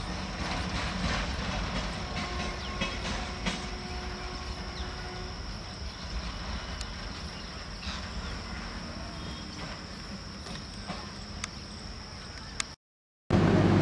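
Double-decker car carrier freight train's wagons rolling away on the rails, with scattered clicks from the wheels and a steady high whine over the rumble, slowly fading as it recedes. The sound cuts off abruptly near the end.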